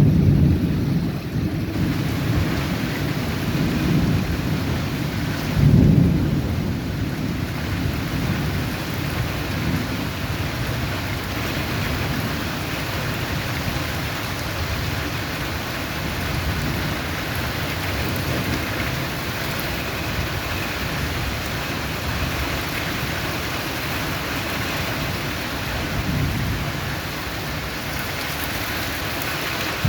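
Steady rain falling, with low rolls of thunder, the strongest about six seconds in.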